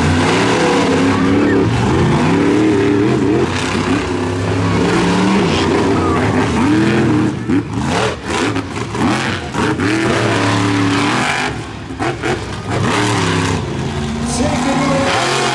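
Monster trucks' supercharged V8 engines running at full throttle in a race, the pitch rising and falling as they rev. The sound dips briefly about eight and twelve seconds in as the throttle comes off.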